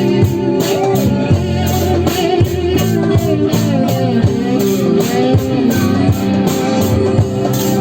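Live band music from a psychedelic jam: bending guitar lines over a steady beat.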